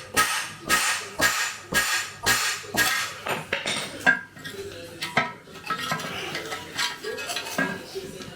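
Metal-on-metal hammer blows with a ringing clang, about two a second for the first three seconds, then lighter, irregular clinks and clatter of metal parts.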